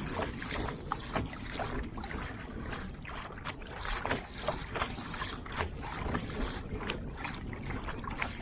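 Kayak being paddled: water splashing and dripping off the paddle in many short, irregular splashes, over a steady low rumble of wind on the microphone.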